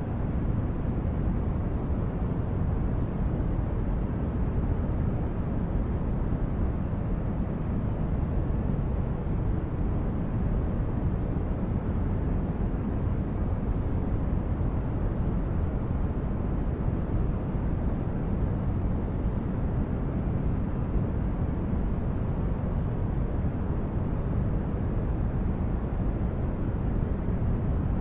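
Synthetic sci-fi starship ambience: a steady, deep rumbling noise like brown noise, with no change, strongest in the low bass and thinning out towards the highs.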